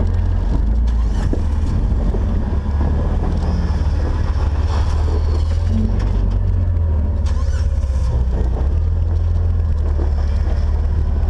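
Jeep engine running low and steady, a deep rumble, with a few faint knocks from the rig.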